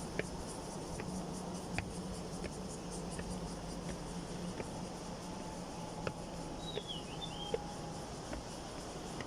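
Steady outdoor background noise on a hiking trail, with scattered faint clicks and a brief high, wavering chirp about seven seconds in.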